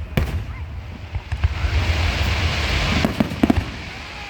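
Aerial fireworks bursting: two sharp bangs at the start, then a dense crackling hiss for about a second and a half, then a quick run of sharp pops.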